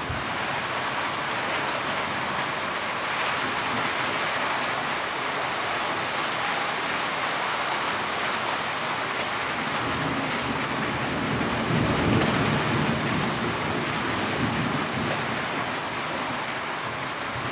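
Heavy rain falling steadily, with a low rumble of thunder swelling and fading about two-thirds of the way through.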